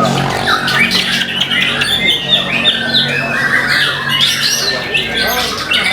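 White-rumped shama (murai batu) singing: a fast, unbroken stream of short notes that sweep up and down in pitch.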